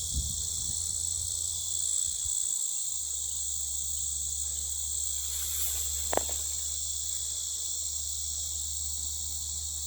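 Loud, steady, high-pitched chorus of summer insects, a continuous shrill drone that never lets up. A low rumble of handling noise in the first few seconds, and a single sharp click about six seconds in.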